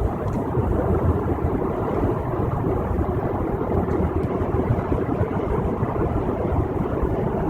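Steady road noise of a car driving at highway speed, heard inside the cabin: a constant rumble of tyres and engine.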